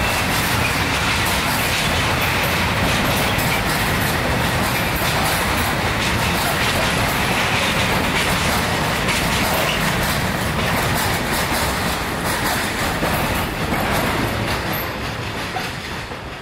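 A train passing close by, its wheels running over the rails in a loud, steady rush with fine rapid ticking, beginning to fade near the end.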